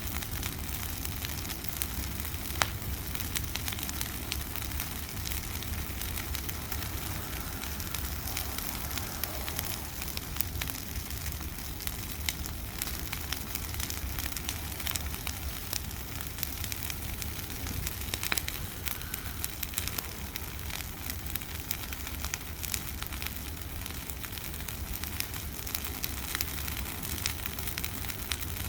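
Large bonfire of dry Christmas trees burning, with dense continuous crackling and hissing. Occasional sharper pops stand out, the loudest about two and a half seconds in.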